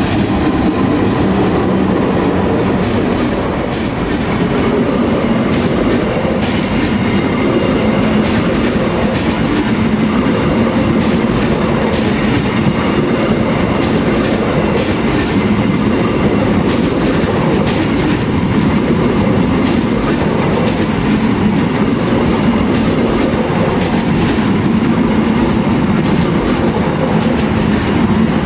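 Diesel locomotive and a long rake of passenger coaches passing close by at speed, with a steady loud rush of wheels clattering over the rail joints.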